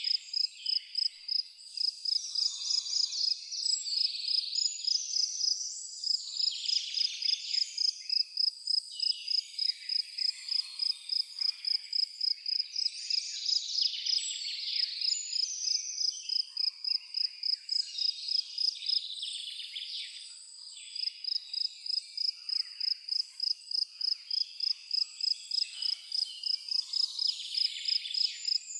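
A cricket chirping steadily and evenly, about three high chirps a second, with birds singing over it in irregular phrases.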